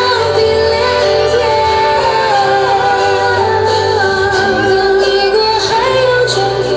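A chorus singing a song with musical accompaniment, the melody moving steadily throughout.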